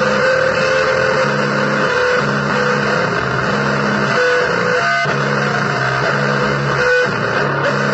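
Noisy blues guitar music: a low riff repeats in short phrases about once a second, with higher held notes over it, all under a thick wash of hiss.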